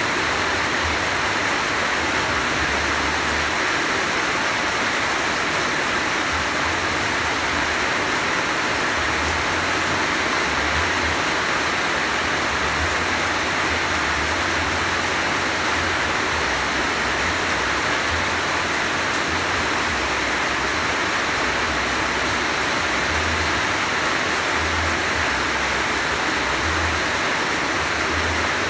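Heavy rain falling in a steady downpour, a dense even rush of water with an uneven low rumble coming and going underneath.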